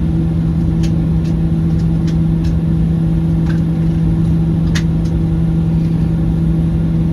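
Steady cabin noise of a Boeing 737-800 taxiing on its CFM56-7B engines: a constant low rumble with a steady droning hum, and a few faint brief ticks in the first half.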